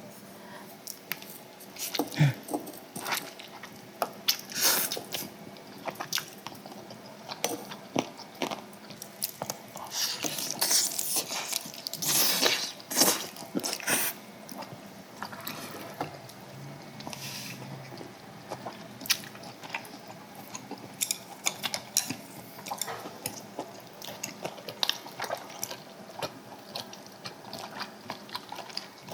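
Close-miked eating of samgyetang, ginseng chicken soup: wet chewing and biting sounds with many small clicks of utensils, busiest about a third of the way in.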